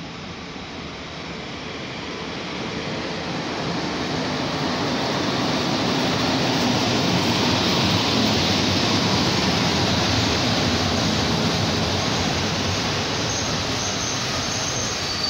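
EP07 electric locomotive and its passenger coaches rolling into the station: the rumble of wheels on rail grows louder over the first several seconds as it approaches, then holds steady as the coaches pass close by. A thin high wheel squeal starts near the end as the train slows to stop.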